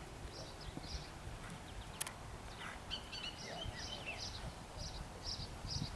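Songbirds chirping: one repeats a short high chirp about twice a second, and another sings a brief run of twittering notes in the middle, over a low rumble of background noise.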